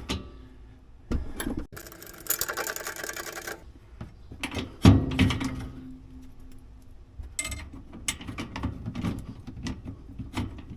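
Rapid metallic clicking as the 5th wheel camper's landing gear linkage is turned by hand, then a single heavy knock, then scattered clicks and clanks of metal parts being fitted.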